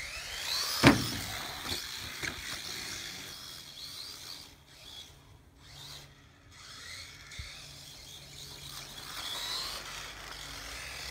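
Electric motor of a Tacon Thriller RC short-course truck whining up in pitch as the truck accelerates, then a loud knock about a second in, followed by a few smaller clicks. Further short motor whines rise and fall later on.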